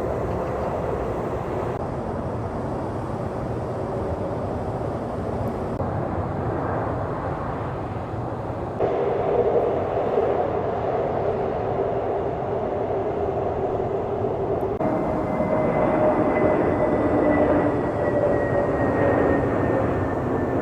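Jet airliner engines running, heard in several clips joined with abrupt cuts; over the last few seconds a steady whine falls slightly in pitch.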